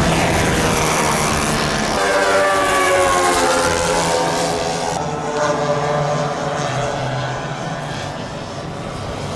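Propeller-driven giant-scale model airplane engine passing by, its pitch sliding down as it goes past, over a steady low engine hum.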